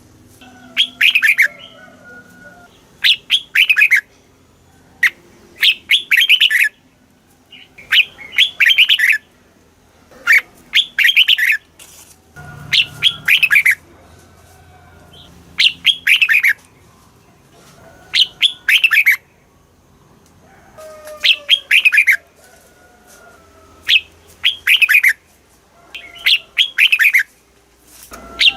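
Red-whiskered bulbul singing: short loud phrases of quick notes, many sweeping downward, repeated about every two seconds.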